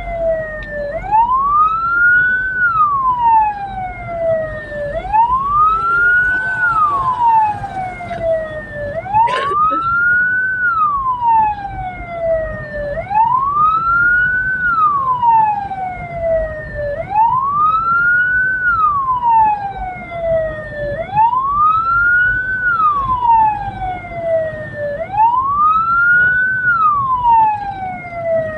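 Hearse siren wailing, each cycle a quick rise followed by a slow fall, repeating about every four seconds, over the low rumble of the vehicle on the move. A single sharp click about a third of the way in.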